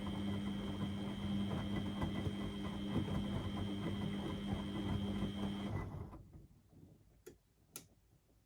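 Beko WMD 46160 washing machine's motor turning the drum during a wash, a steady hum with a high whine over the tumbling of wet laundry. The drum stops about six seconds in, and two sharp clicks follow in the pause.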